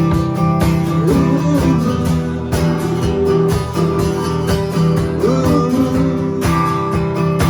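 Acoustic guitar music, strummed in a steady rhythm, with a wavering melody line over it now and then.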